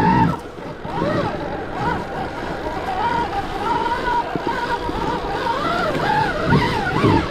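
Stark Varg electric dirt bike's motor whining, its pitch rising and falling with the throttle, over a rough noisy background.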